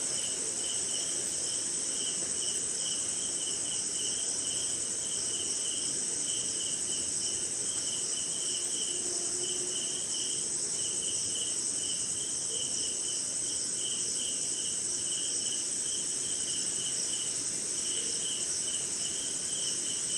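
Night insect chorus of crickets: one continuous high trill, with a second lower insect call pulsing rapidly over it.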